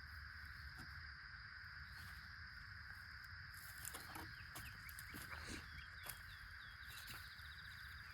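Faint bird chirps over a steady high hum. A run of short chirps comes about halfway through, ending in a quick trill near the end.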